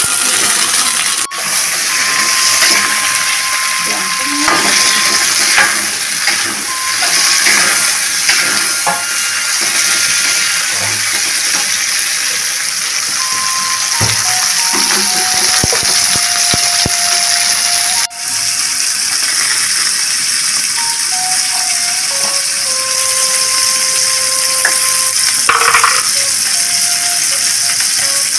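Chilies, shallots and tomatoes frying in hot oil in a wok: a steady sizzling hiss, with light clinks and scrapes of a metal spider strainer stirring against the wok. The sizzle breaks off sharply for an instant twice, about a second in and about eighteen seconds in.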